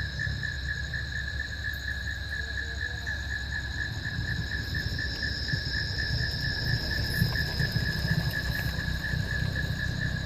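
Insects chirring steadily: a high, rapidly and evenly pulsing trill with fainter higher tones alongside it, over a low rumble.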